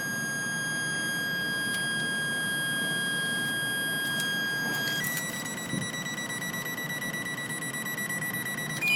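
Electronic warning tone from the car's electronics: a steady high tone for about five seconds, then switching to a slightly higher, rapidly pulsing tone that changes pitch again near the end.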